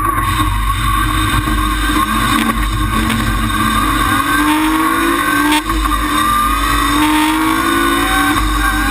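BMW Compact M3 rally car's straight-six engine heard from inside the cabin, under hard acceleration. Its pitch rises through each gear, drops at a gearchange a little over halfway through, then climbs again.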